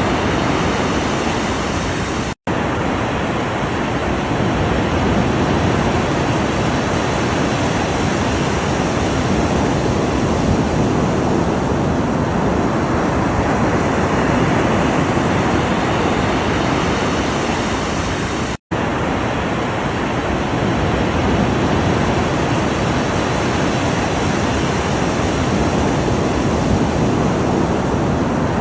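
Steady, continuous rush of ocean surf with no distinct single wave breaks. It drops out to silence for an instant twice, about two seconds in and again about eighteen seconds in.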